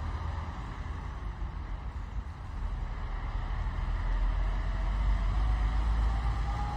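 Rain heard from inside a car as a steady hiss, under a low vehicle rumble that swells about halfway through, with a faint rising whine.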